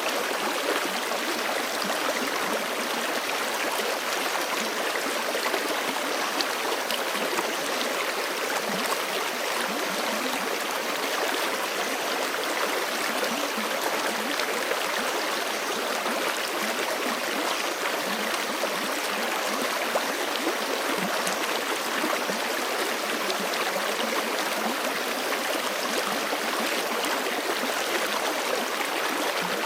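Forest creek flowing over rocks: a steady rush of water with fine splashing and gurgling, even throughout.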